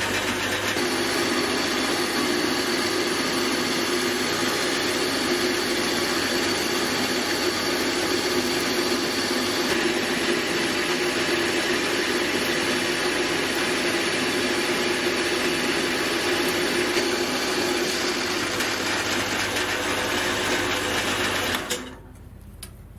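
Homemade Gingery milling machine running steadily while it cuts a rough cast-aluminium blank, then switching off near the end.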